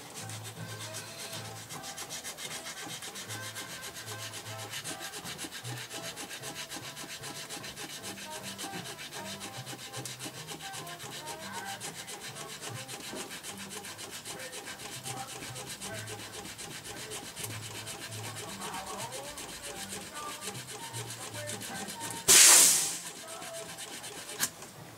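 Sandpaper, 80 grit, rubbed rapidly and continuously against a part to take down high spots. Near the end there is one brief, much louder rush of noise, followed by a small click.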